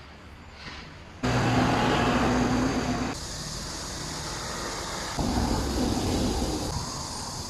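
Steady mechanical running noise with a low hum, starting abruptly about a second in and changing sharply every couple of seconds as one short clip cuts to the next.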